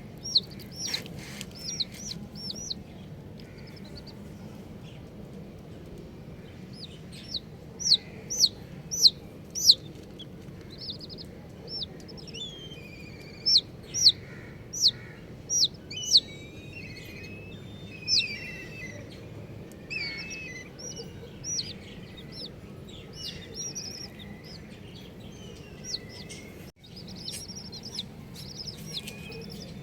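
Baby chicks peeping: short, high, downward-sliding peeps in quick runs, loudest in bursts about a third of the way in and again near the middle, with softer trilling chirps between.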